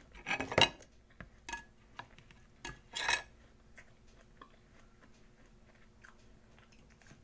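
A person chewing crisp apple: a few short crunches, the loudest about half a second in, then fainter smaller clicks.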